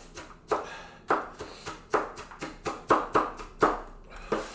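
Kitchen knife chopping onion on a cutting board: about seven sharp, irregular chops with short pauses between them.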